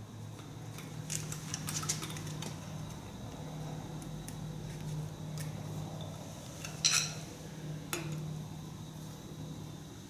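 Metal parts and tools clinking and tapping as they are handled, with the sharpest clink about seven seconds in, over a low steady hum.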